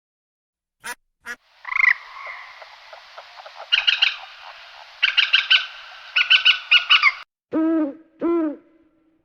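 A sequence of animal calls: two short calls near the start, then about five seconds of rapid chattering calls in quick runs, then two low hoots near the end.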